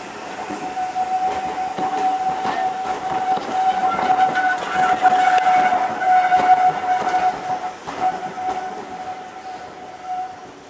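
Railway coaches of a departing steam train rolling past, with wheel clicks over a rumble that grows louder and then dies away as the last coach goes by. A long, steady high-pitched tone runs through the passing and stops just before the end.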